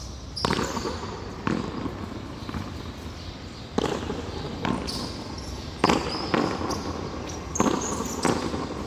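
Frontón a mano rally: a ball struck by hand and smacking off the wall and floor, in sharp hits at irregular gaps of about half a second to a second.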